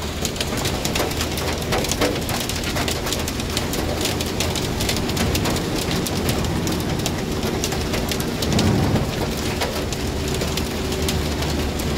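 Heavy rain drumming on a vehicle's roof and windscreen, heard from inside the cab, over the steady low drone of the engine and tyres on a wet road. A brief louder low rush comes about three-quarters of the way through.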